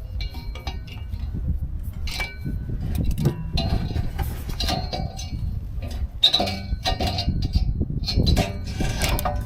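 Short metallic clinks and knocks, some with a brief ring, from exhaust pipe parts and hand tools being handled while an exhaust flange gasket is fitted.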